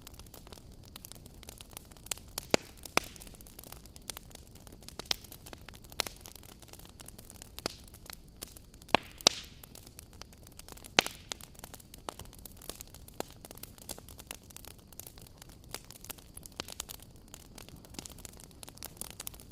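Wood fire crackling: irregular sharp pops and snaps over a low steady hiss, with a few louder pops standing out.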